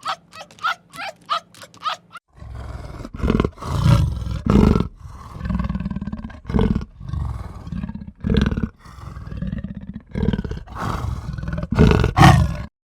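A short run of quick, high yelping calls, then a large animal growling and roaring loudly in deep, repeated calls about a second long, cutting off abruptly near the end.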